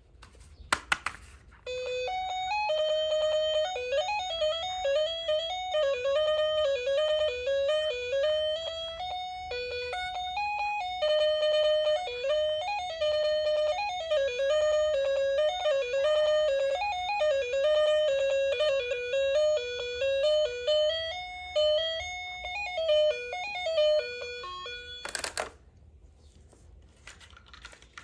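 A toy's electronic sound chip plays a simple beeping tune after a couple of clicks. The tune runs for about twenty seconds, then cuts off suddenly with another click.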